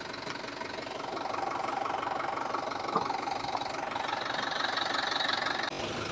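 Tractor diesel engine running steadily, a little louder after the first second or so.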